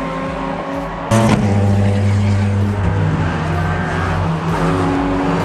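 Race car engines running at steady speed, with a sudden jump in loudness about a second in as a louder engine comes in.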